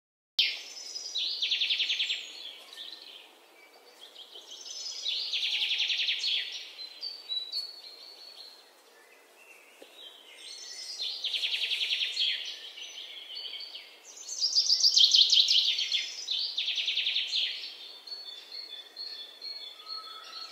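Birds chirping in rapid trills, in spells of one to three seconds with short gaps between.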